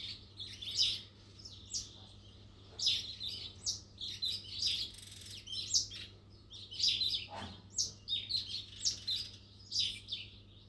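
Small birds chirping and twittering in many short, quick calls throughout, over a faint steady low hum.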